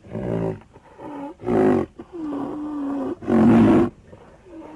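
Large dog barking in deep, repeated barks, about five in all, one drawn out into a longer held note about two seconds in.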